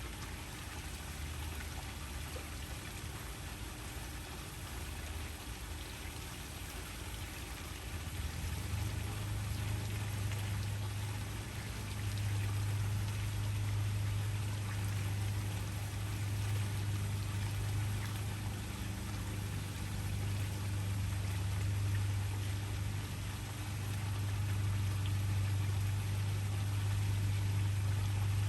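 Waterfall: steady rushing, splashing water, with a deep low rumble that comes in about eight seconds in and grows stronger a few seconds later.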